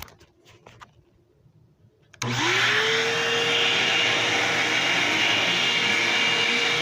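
Vacuum cleaner switched on about two seconds in: its motor spins up with a quickly rising whine that settles to a steady pitch, then runs steadily.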